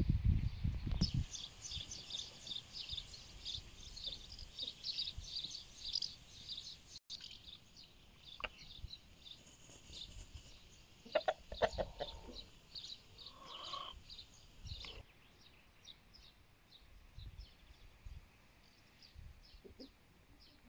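Birds chirping over and over in quick, high notes, with a few lower calls about eleven to fourteen seconds in. A brief low rumble sounds in the first second.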